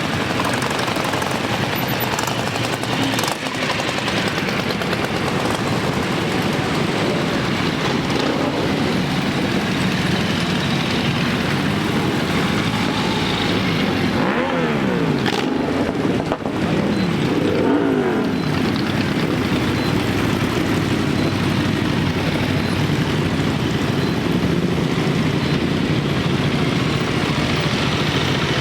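Many motorcycles riding past together in a continuous din of engines. About halfway through, a few engines rev, their pitch falling and rising.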